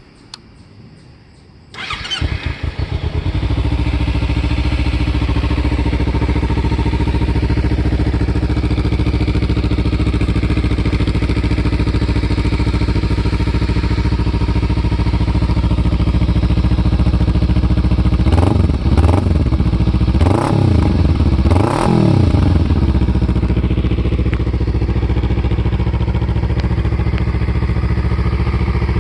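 Kawasaki Ninja 300 parallel-twin engine, breathing through a stock muffler drilled full of holes for more sound, starting about two seconds in and settling into a steady idle. Near the middle it is revved a few times in quick succession, the pitch rising and falling, then drops back to idle.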